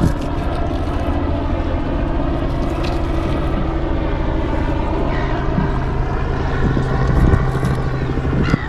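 An engine running steadily: a continuous low hum that holds at one pitch.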